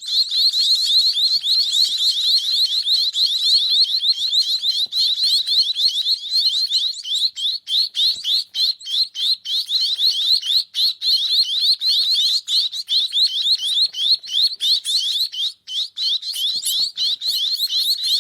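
Hand-raised young bird giving shrill begging calls: a continuous rapid run of short rising chirps, about six a second.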